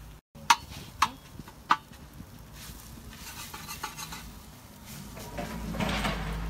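Metal cooking utensils on a pan: three sharp knocks about half a second apart, then lighter clinks and scraping. A rush of noise builds near the end.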